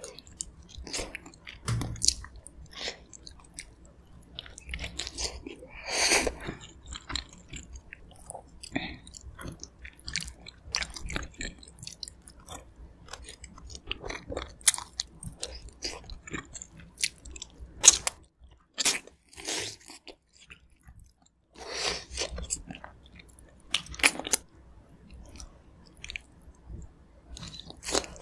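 Close-miked chewing and biting of aged kimchi cabbage and pork from a spicy gamjatang, with wet mouth sounds coming in short, irregular bursts and a brief pause about two-thirds of the way through.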